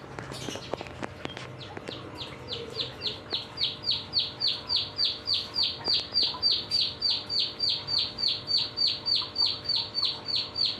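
Young canary singing a long run of the same high, downward-slurred note, repeated evenly about three or four times a second and growing louder. A few sharp clicks come before the song begins.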